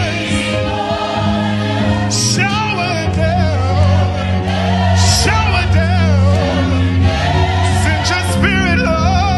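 Gospel worship music: a choir singing with vibrato over sustained bass and keyboard chords, with a few cymbal-like hits.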